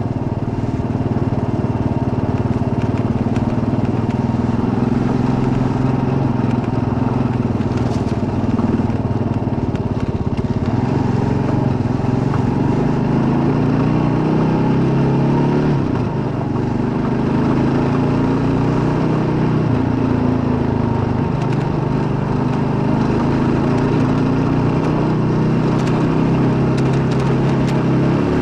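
Kawasaki KLR650's single-cylinder four-stroke engine running steadily under way. About halfway through, the engine note drops sharply and then builds again.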